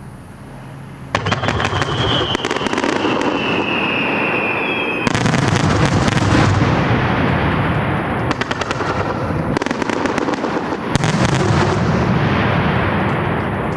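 Fireworks going off in a dense volley of rapid bangs and crackling, starting suddenly about a second in and surging again at about five and about eleven seconds. A whistling tone falls slightly in pitch through the first few seconds of the volley.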